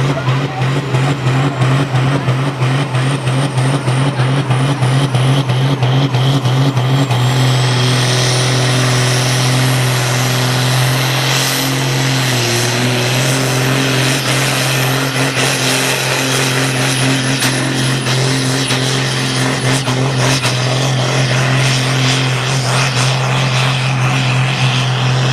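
Ursus tractor's turbocharged diesel engine running flat out under full load while pulling a weight sled. The engine note pulses at first, then settles into a steady drone, and a high turbo whine rises about a quarter of the way in and holds.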